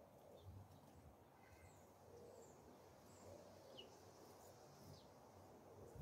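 Near silence: faint outdoor ambience, with a few faint, short bird chirps.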